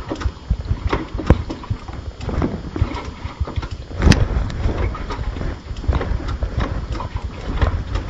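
Yamaha YBR 250 motorcycle's single-cylinder engine running while stopped, heard through a handlebar-mounted camera, with irregular knocks and rattles over it and a sharper knock about four seconds in.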